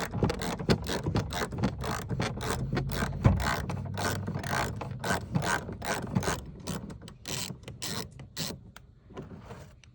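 Ratchet wrench clicking rapidly as it undoes the bolt holding a truck's door handle, worked from inside the door; the clicking thins out and stops near the end as the bolt comes free.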